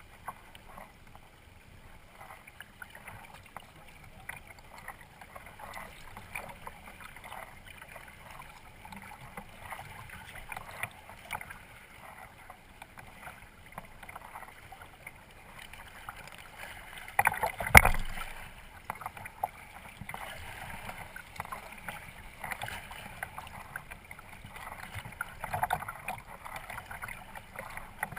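Kayak paddle strokes dipping and splashing in the water, with small irregular splashes and water lapping around the boat. About two-thirds of the way through comes one loud knock.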